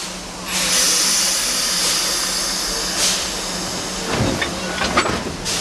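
Steam locomotive venting steam: a loud hiss starts about half a second in and eases off after about three seconds, followed by a run of metallic knocks and clanks near the end.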